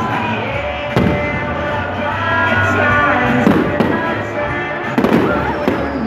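Aerial fireworks shells bursting over music for a pyromusical show. There are sharp bangs about a second in, a cluster around three and a half seconds, and more about five seconds in.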